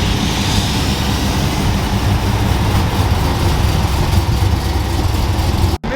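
Car engine running steadily, a loud low rumble that cuts off abruptly near the end.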